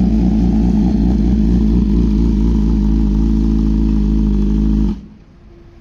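Motorcycle engine idling steadily and loudly, then cutting off about five seconds in.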